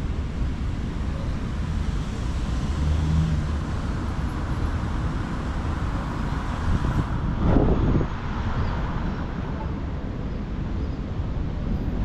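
City street traffic: a steady rumble of passing cars and other road vehicles, with a louder rush about two thirds of the way in.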